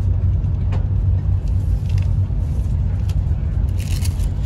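Steady low rumble of a PKP Express InterCity Premium (ED250 Pendolino) train running at speed, heard inside the carriage, with a few faint clicks and a brief hiss near the end.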